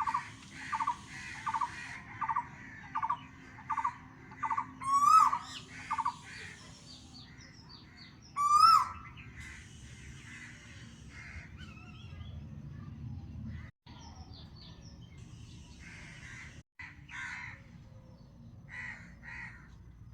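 Birds calling. A run of short, evenly repeated calls comes about one and a half times a second for the first six seconds, with two loud rising calls about five and eight and a half seconds in, then scattered chirps.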